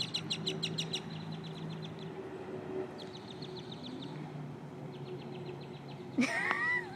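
Birds chattering in rapid runs of high notes, about nine a second, in three spells, with a louder call that bends in pitch about six seconds in.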